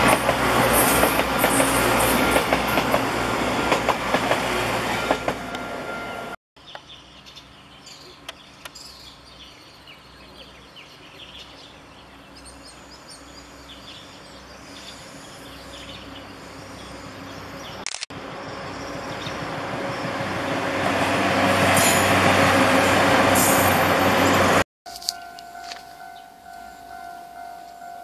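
Diesel passenger train passing close by, loud, then cut off suddenly. Over a later shot it is heard quieter and farther off, growing steadily louder to a peak as it approaches, before another abrupt cut. The last few seconds hold a quieter steady hum.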